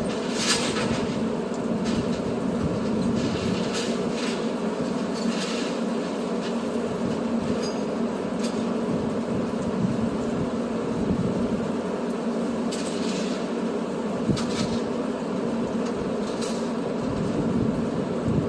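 Heavy truck engine running steadily with a low drone, as if heard while driving, with a few brief hisses over it.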